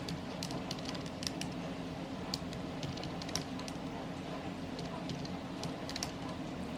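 Scattered light clicks and taps, about one or two a second at irregular spacing, over a steady low hum.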